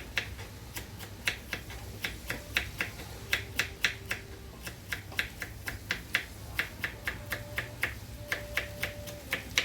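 A knife chopping celery on a cutting board: a quick, uneven run of sharp clicks, about three or four a second.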